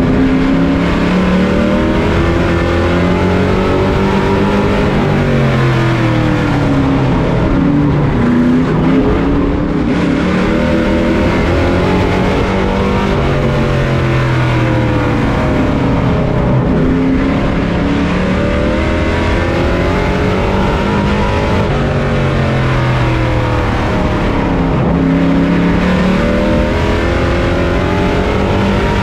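A pro truck's racing engine heard on board at full race pace. The revs climb and fall over and over, every several seconds, as the truck accelerates down the straights and lifts for the turns of a short oval.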